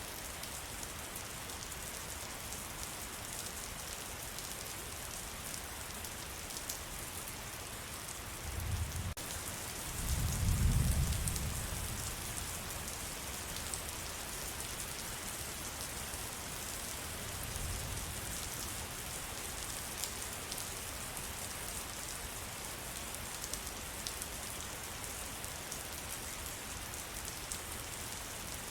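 Steady rain falling in a forest, a dense patter of drops. A low rumble swells about nine seconds in and peaks about a second later, and a fainter one comes near eighteen seconds.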